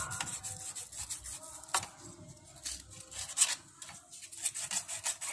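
Sandpaper rubbing in short back-and-forth strokes on a refrigerator's refrigerant pipe, cleaning it bright before it is brazed.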